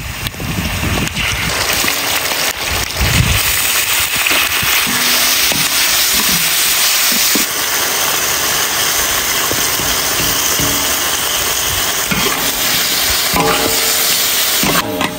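Sauce, chopped lemongrass, chillies and garlic sizzling in hot oil in a large wok, a steady hiss that eases a little about halfway through. Near the end a metal ladle stirs and scrapes against the pan.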